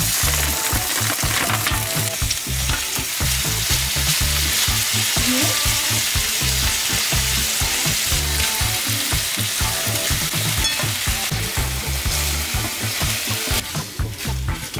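Diced chicken breast sizzling in oil in a stainless steel frying pan, a steady crackling hiss that thins out near the end as the pan is stirred with tongs.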